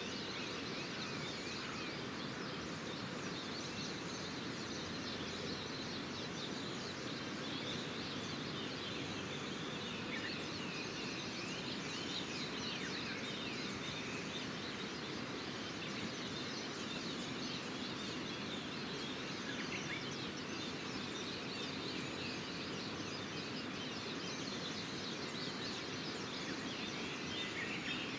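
Many small birds chirping and twittering over a steady rushing background noise.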